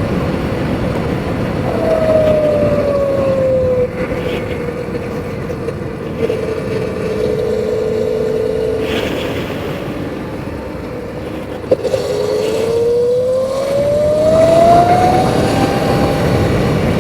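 Sur-Ron Light Bee X electric dirt bike on the move: the whine of its electric motor and drivetrain drops in pitch as it slows, holds steady, then climbs again as it speeds up in the second half. A rush of wind on the microphone runs underneath, and there is one short knock just before the climb.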